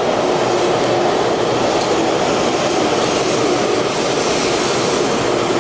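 Taiwan High Speed Rail 700T bullet train moving along the platform close by, a steady loud running noise of the train.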